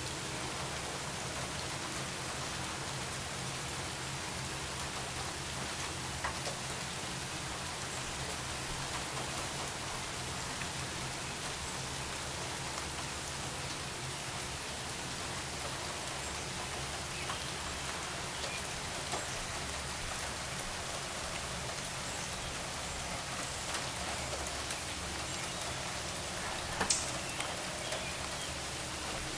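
Steady rain falling on a flooded pavement and pooled water, an even hiss with scattered drop ticks and one louder tick near the end.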